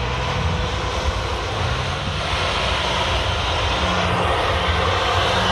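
Motocross bike engines running, with tones that step up and down in pitch under a steady rush of noise.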